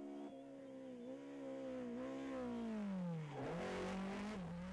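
A BMW E30 M3 rally car's racing engine at high revs. The note wavers, falls steeply about three seconds in, then picks up again. A rushing noise follows near the end.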